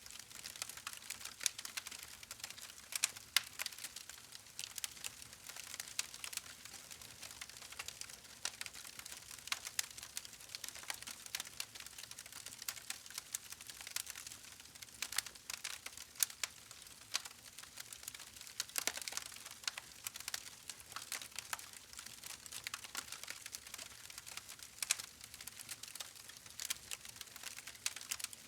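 Campfire crackling: wood burning with irregular sharp pops and snaps over a soft hiss.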